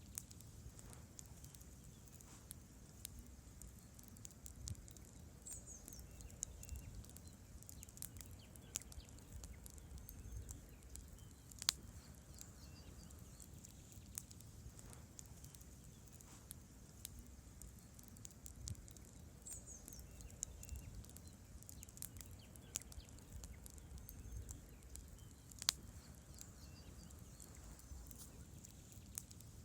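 Wood campfire burning: logs crackling with irregular sharp pops over a low, steady rumble of the flames, with two louder pops, one about twelve seconds in and one near the end.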